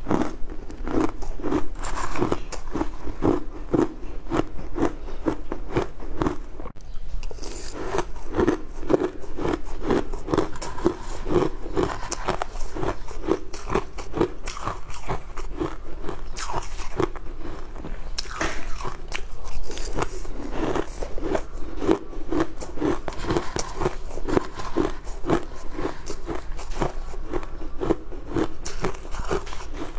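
Close-up crunching and chewing of a mouthful of crunchy, icy food, a steady rhythm of about two chews a second with a short pause about seven seconds in.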